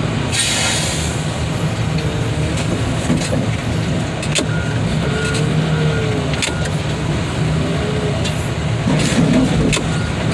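Diesel engine of heavy yard machinery running steadily, with a short hiss about half a second in and a few sharp clanks.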